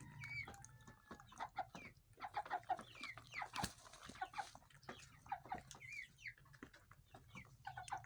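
Broiler chickens clucking and peeping, many short calls a few a second, some sliding down in pitch, over a low steady hum.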